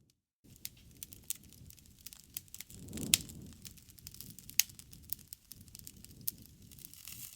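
Wood fire crackling in a fireplace: irregular sharp snaps and pops over a low rustle of burning, with a louder pop about three seconds in and another about a second and a half later. The sound drops out briefly at the very start.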